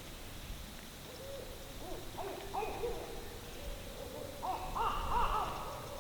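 Several barred owls calling over one another, a chorus of rising-and-falling hoots at two different pitches. It starts about a second in and grows busier and louder around five seconds in.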